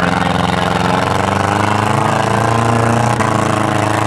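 Front-wheel-drive demolition derby cars' engines running loud, their pitch wavering as they rev and ease off, with a faint knock about three seconds in.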